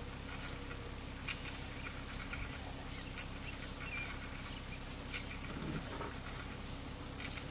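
Steady rush of floodwater with scattered small splashes and crackles, and a faint low hum underneath.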